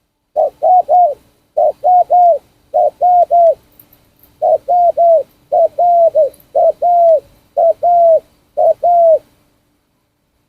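Spotted dove cooing: about eight short phrases of two or three coos each, one a little over every second.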